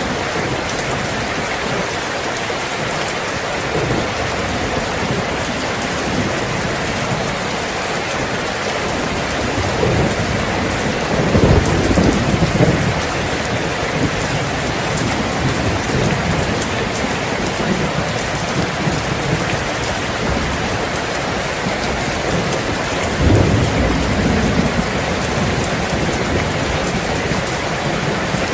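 Steady heavy rain falling, with low rolls of thunder: one swells about ten seconds in and lasts a few seconds, and another comes later.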